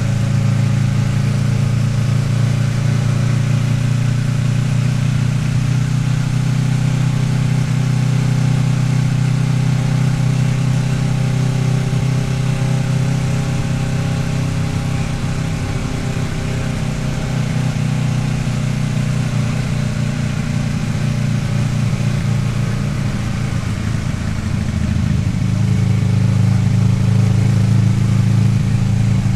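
Kawasaki Ninja 650R sportbike's parallel-twin engine running steadily under way. About twenty-five seconds in, the engine note briefly shifts in pitch, then settles and runs a little louder.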